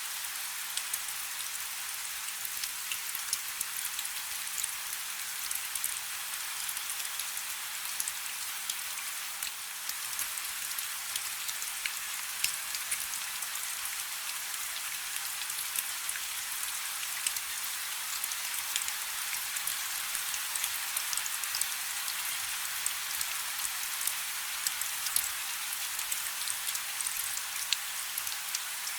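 Light rain falling: a steady hiss of rain with many small drop ticks scattered through it and hardly any low rumble.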